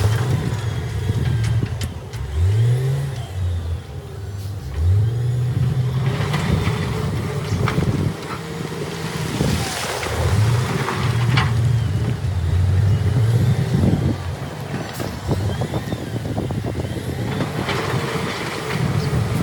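Diesel engine of heavy earthmoving machinery running under load. Its pitch sweeps up sharply twice in the first five seconds as it revs, with a few sharp knocks scattered through.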